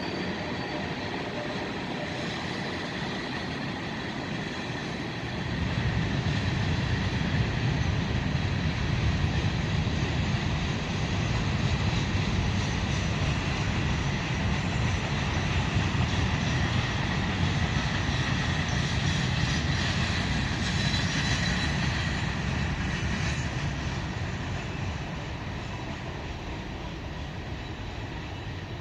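Freight train rolling past on the rails, a steady rumble that grows louder about five seconds in and eases off near the end, with a thin steady high tone over it.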